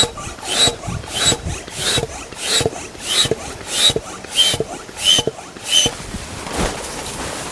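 Hand-operated air pump being worked in steady strokes, about three every two seconds. Each stroke gives a rush of air with a thin whistle, and the whistle drops slightly in pitch over the later strokes. The pumping stops about six seconds in.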